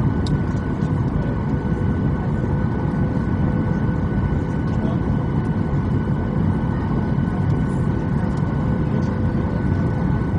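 Steady cabin drone of a Boeing 737-800 in flight, engine and airflow noise heard from inside the passenger cabin: a deep even rumble with two faint steady hums above it and a few light ticks.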